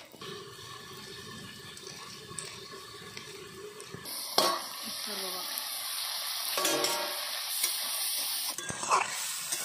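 Food frying in hot oil in a metal wok over a wood fire. About four seconds in there is a metal clank, then a loud steady sizzle, with a metal spatula scraping and stirring in the pan.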